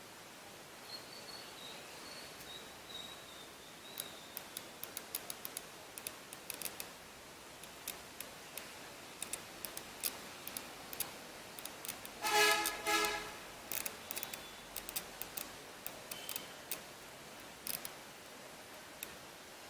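Irregular small sharp clicks and ticks from an Epson dot-matrix printer and its print head being handled during repair. A short squeaky pitched sound comes about twelve seconds in.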